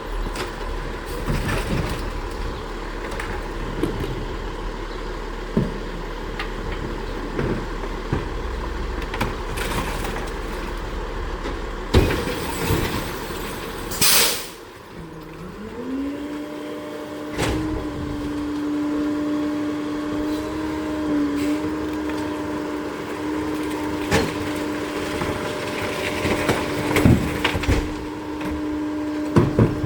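Garbage truck working: an engine running with scattered knocks and bangs, and a short, loud air-brake hiss about halfway through. After that a whine rises and holds steady for the rest of the time, with more bangs now and then.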